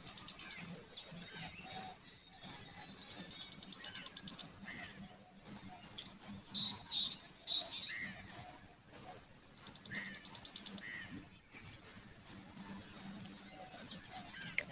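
High-pitched chirping from birds and crickets: short chirps repeating several times a second, broken by bursts of rapid trilling three times.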